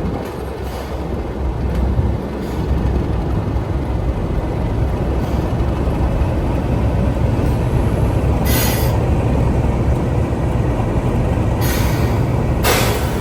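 English Electric 12CSVT V12 diesel engine of Class 37 locomotive D6700 running with a steady low rumble, heard from on board, growing louder about two seconds in. Three short bursts of hiss cut in near the end, the last and longest just before the end.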